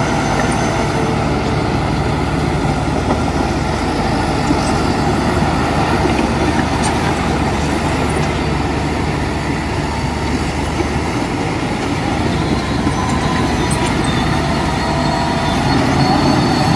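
Heavy diesel earthmoving machinery running steadily, a dense engine drone with a low hum that drops out about eleven seconds in.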